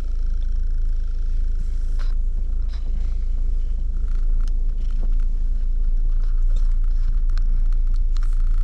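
Strong wind buffeting the microphone, a steady low rumble with a few faint clicks scattered through it.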